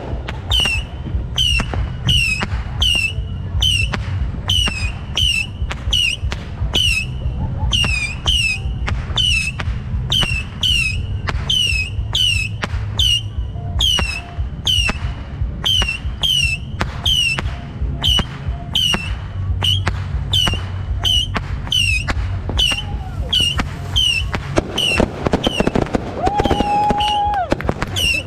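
New Year's fireworks and firecrackers going off: sharp cracks, each with a short high chirp, repeat evenly a little under twice a second over a steady low rumble. Near the end a whistle rises and holds a note for about two seconds.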